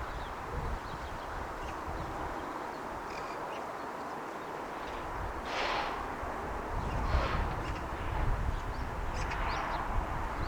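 A crow cawing three times, a second or two apart, with a few faint chirps from small birds, over a steady background hum and low wind rumble on the microphone.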